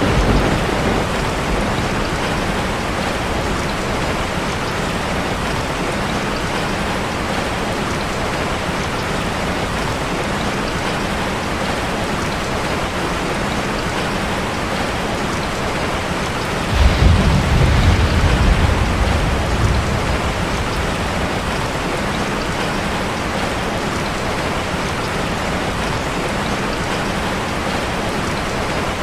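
Steady heavy rain drumming on a metal roof. A low roll of thunder comes about seventeen seconds in and lasts a few seconds, with a brief low rumble right at the start.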